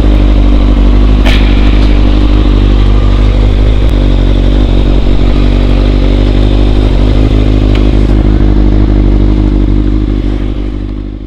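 Motorcycle engine running steadily, with a strong low rumble and a brief click about a second in; the sound fades out near the end.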